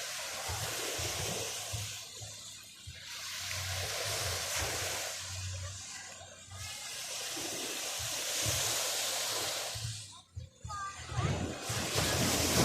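Sea waves breaking and washing up the shore, a hissing surf that swells and ebbs about every three to four seconds.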